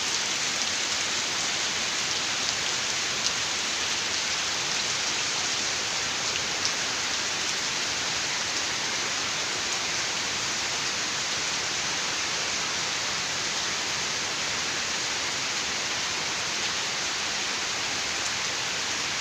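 Heavy rain pouring down in a steady hiss, with a few sharper drop hits in the first seconds.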